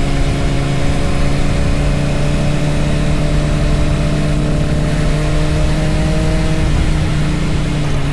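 Motorcycle engine running at a fairly steady speed, its note easing down slightly, with a brief change in the note near the end.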